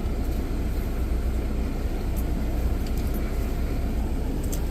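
Steady low rumble of a pickup truck's engine and road noise heard from inside the cab while driving.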